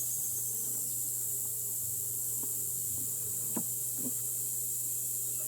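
Steady high-pitched drone of insects with a low honeybee hum from the open hive beneath it, broken by a few soft knocks of hive parts being handled.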